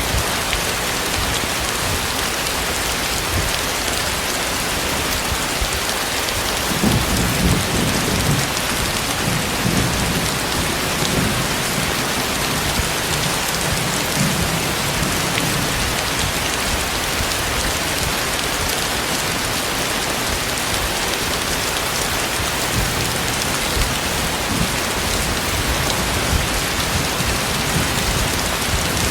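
Heavy tropical rain falling steadily, with a low rumble of thunder starting about seven seconds in and dying away over several seconds.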